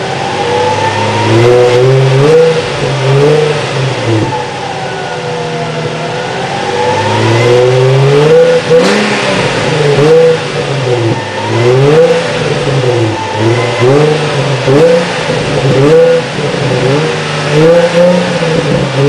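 Nissan 350Z's 3.5-litre V6 being revved repeatedly through its exhaust. It gives quick rising and falling blips, with one slower, longer rev about four to seven seconds in, and faster blips toward the end.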